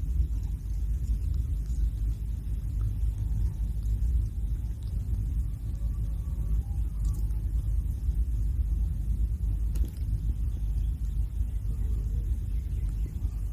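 A steady low rumble that runs on unchanged, with no clear sound above it.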